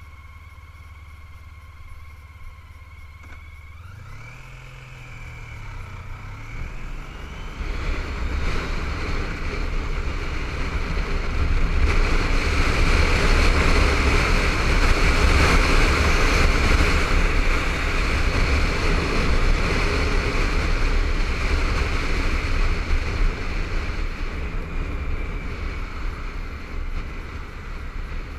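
Honda ST1300 motorcycle's V4 engine running steadily, then about four seconds in its note rises as the bike pulls away and accelerates. Wind and road noise on the helmet camera build with speed, loudest around the middle, then ease a little.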